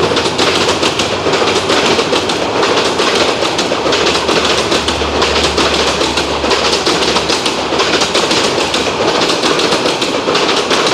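Intercity passenger train running past close by, its wheels clattering steadily over the rails.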